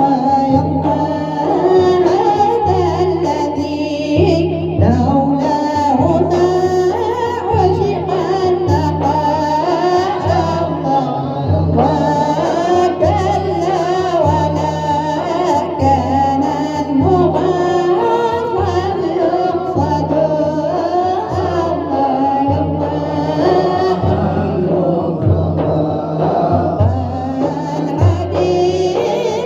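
Arabic devotional praise song for the Prophet (madih nasheed) being sung, the voice carrying a wavering melody over a steady, regularly pulsing low beat.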